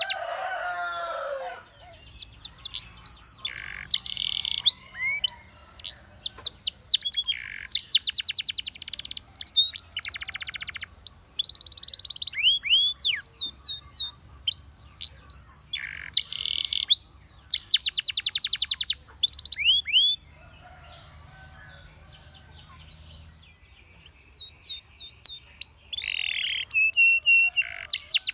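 Canary singing: fast rolling trills alternating with quick rising and falling whistled notes. The song breaks off for a few seconds about twenty seconds in, then resumes.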